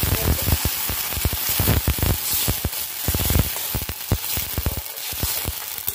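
Sauce and water sizzling as they hit hot oil with onions and capsicum in a steel pan, with a steady hiss full of small pops and crackles and a spatula stirring through it. The sizzle eases off slightly near the end.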